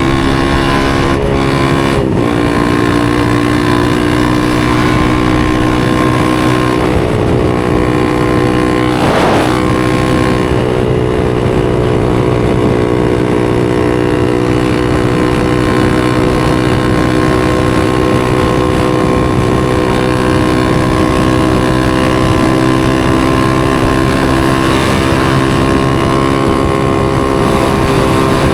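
A 250cc supermoto's single-cylinder engine running at steady, fairly constant revs. The tone briefly breaks about two seconds in and again about nine seconds in.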